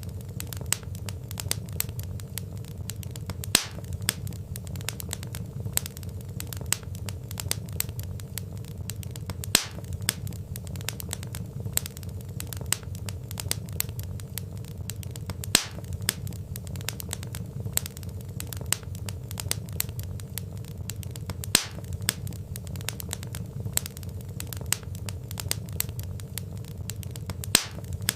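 Wood fire crackling: dense small snaps and pops over a steady low rumble of burning logs, with a louder sharp pop about every six seconds.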